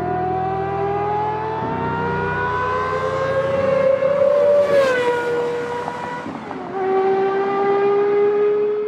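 Gordon Murray T.50's Cosworth V12 accelerating: the engine note climbs steadily in pitch for about four and a half seconds, falls back near the five-second mark and again about six and a half seconds in as it shifts up, then climbs again.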